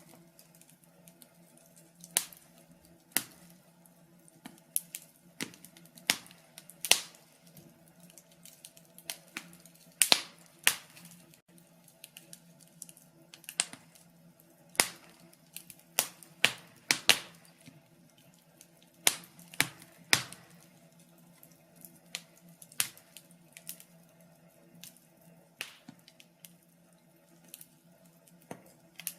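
Wood fire crackling: irregular sharp pops and snaps at uneven intervals, some much louder than others, over a faint steady low hum.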